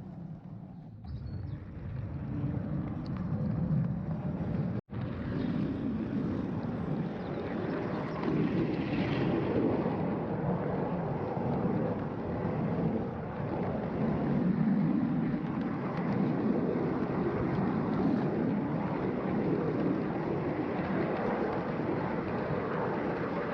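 A 5-inch gauge miniature train running on its track, its steel wheels rumbling steadily over the rails, with a brief cut-out in the sound just before five seconds in.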